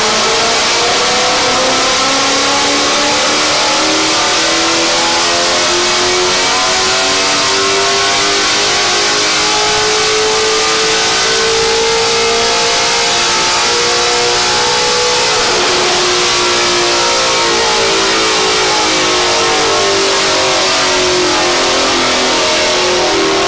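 2018 Ford Mustang GT's 5.0-litre V8, breathing through Kooks long-tube headers and a Corsa cat-back exhaust, running hard under load on a chassis dyno. The revs climb steadily for about fourteen seconds, drop sharply a little past halfway, then climb again.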